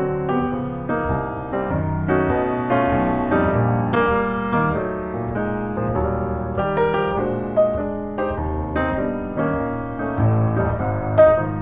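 Background music: piano (or electric piano) playing a flowing melody with chords, notes changing several times a second.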